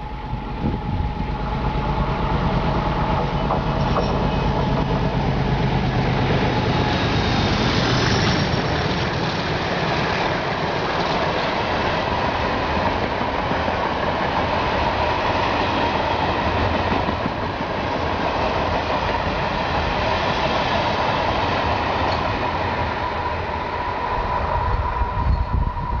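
Two MLW MX627 diesel locomotives passing with a freight train: their engines drone for the first several seconds, then a long string of freight wagons rolls by with a heavy rumble and wheel clatter, and the wheel flanges squeal on the curve.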